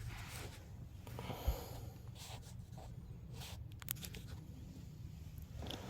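Quiet handling noises inside a car: brief rustles, a soft thump about a second and a half in, and a few light clicks, over a low steady hum.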